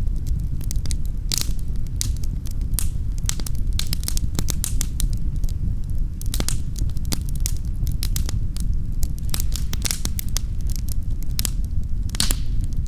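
Wood fire in a fireplace crackling, with many sharp, irregular pops over a steady low rumble.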